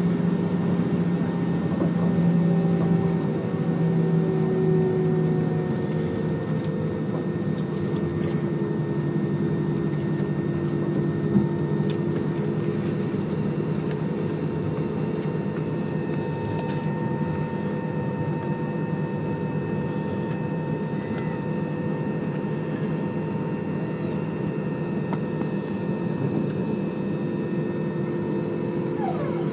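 Airbus A320 cabin noise while taxiing: a steady jet-engine hum and air rush with several held tones, their pitch drifting slightly in the first few seconds. One short click about eleven seconds in.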